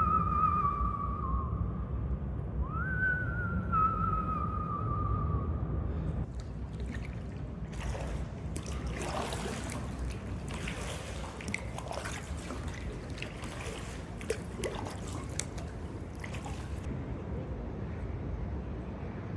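Kayak paddle strokes, with water splashing and trickling off the blades in irregular bursts from about six seconds in, over a steady low rumble. The first few seconds hold two long wavering whistle-like tones, each falling slowly in pitch.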